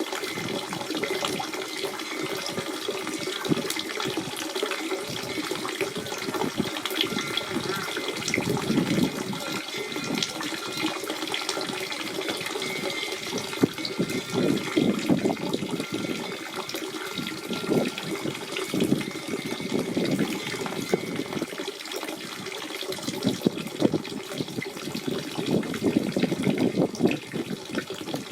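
Natural spring water running and splashing steadily, a continuous babbling flow with fine splashes.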